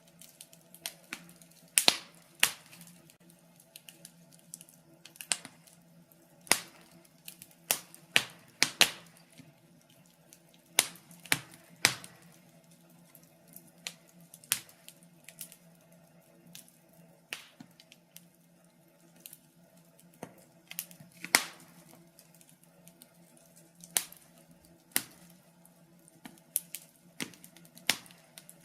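Wood fire crackling in a fireplace: irregular sharp pops and snaps from the burning logs, about one a second, some louder than others, over a faint steady hum.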